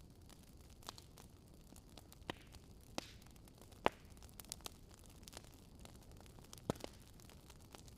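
Fire crackling: a faint, steady low bed of noise with scattered sharp pops and snaps, the loudest about four seconds in.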